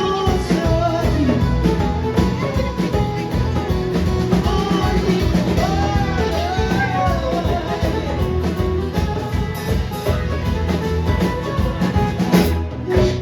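A live band playing a song with a drum kit and singing. The music drops away briefly near the end.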